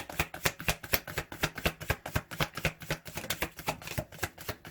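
Deck of tarot cards being shuffled by hand: a quick, even run of card clicks, about eight or nine a second.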